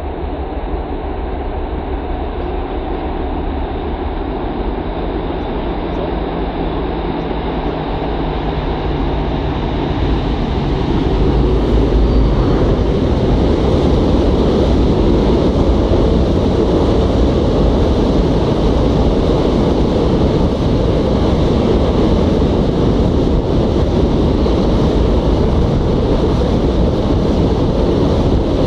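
An ST44 diesel locomotive's two-stroke V12 engine approaches and grows louder until it passes beneath, about eleven seconds in. After it comes a long train of empty open freight wagons, rolling by with a steady rumble of wheels on the rails.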